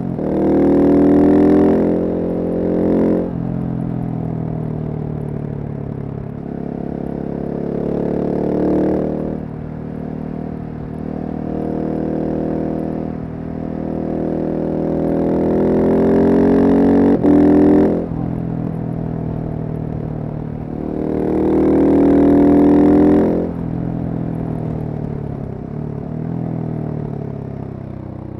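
Single-cylinder Husqvarna supermoto engine under way, accelerating hard in several surges with its pitch climbing, then dropping back at each shift or roll-off, with lighter cruising between the pulls. A short sharp click about 17 seconds in.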